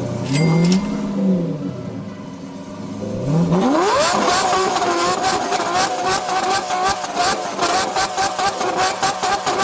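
Car engine revving: a short rise and fall in pitch near the start, then a sharp climb about three and a half seconds in to high revs, held steadily with a fast regular pulsing.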